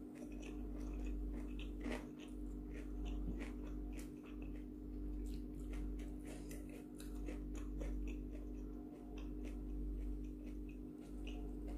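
Close-miked chewing of a mouthful of rice with raw basil leaves, sambal and salted fish, heard as many small mouth clicks. A steady low hum runs underneath.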